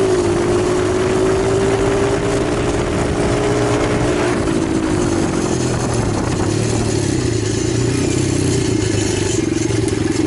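Italjet 125 cc pit bike engine running at steady, raised revs, then dropping about halfway through to a lower, rougher idle.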